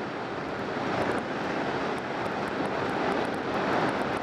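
Riding noise from a BMW K1200R motorcycle at speed: a steady rush of wind over the camera microphone mixed with the inline-four engine running, rising a little about a second in. Scattered faint ticks of rain beginning to hit the camera.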